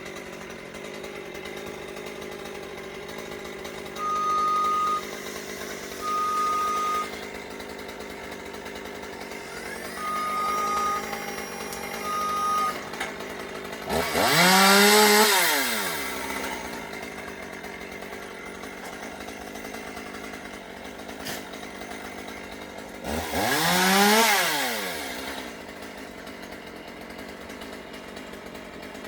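Two-stroke chainsaw idling, revved up to full speed twice for about two seconds each and dropping back to idle. Four short, high, steady beeps sound earlier.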